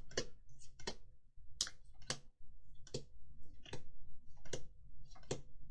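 Trading cards being flicked through one after another, each card giving a short crisp snap, about one every three-quarters of a second.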